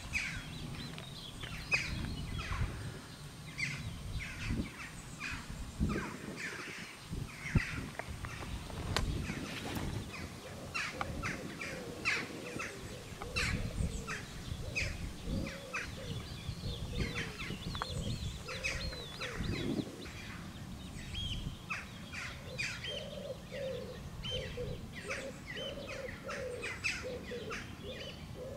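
Songbirds chirping and singing with many short calls, joined about two-thirds of the way through by a run of lower calls repeated about twice a second, over a low rumble.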